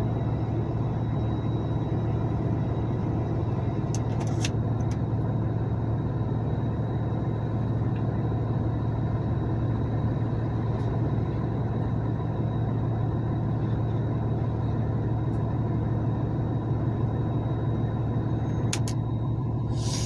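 Vehicle engine running steadily: a low, even drone with no change in pitch. A few faint clicks come about four seconds in and again near the end.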